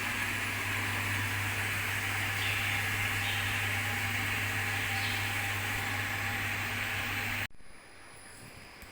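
Milk vat wash system running its hot water and acid rinse: a pump's steady hum under the hiss of water spraying inside the vat. It cuts off abruptly near the end as the wash cycle finishes.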